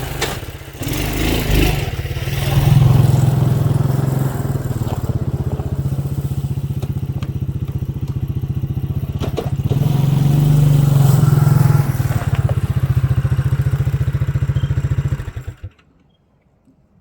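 Four-wheeler (ATV) engine running under way, with a steady pulsing note that swells louder twice as it is given more throttle, then is shut off near the end.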